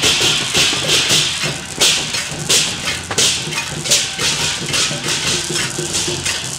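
Temple procession percussion: cymbals crashing on a steady beat about every 0.7 seconds, with a low steady tone of other instruments underneath.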